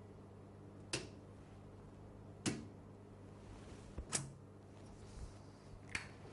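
Faint sharp clicks and knocks from equipment being handled, four of them spaced one to two seconds apart, over a steady low hum.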